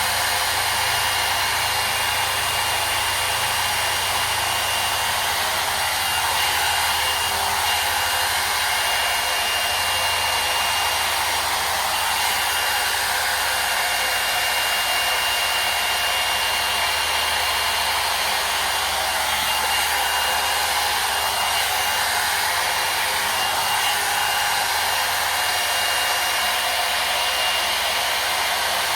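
Hot-air brush (hair dryer and volumizer) running steadily on its hot setting: a continuous rush of blown air with a thin, steady high whine from the motor.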